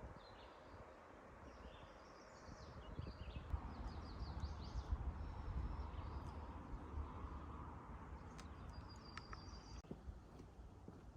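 Small birds chirping in short, scattered calls over a steady low rumble and hiss of outdoor ambience.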